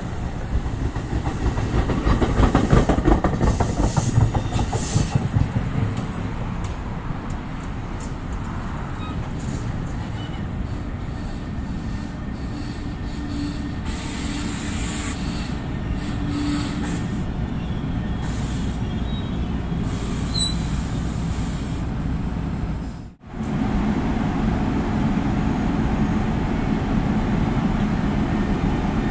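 NJ Transit passenger train rolling through, its wheels clattering over the rail joints, loudest in the first few seconds, with some wheel squeal, then settling into a steady rumble. The sound breaks off for a moment near the end and comes back as a steady rumble.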